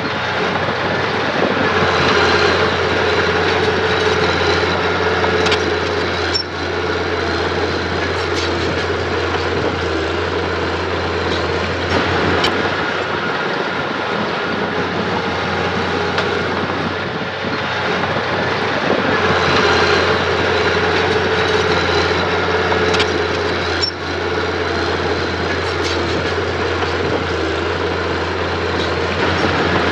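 Diesel engine of earth-moving machinery running steadily under load, with a few short sharp clicks.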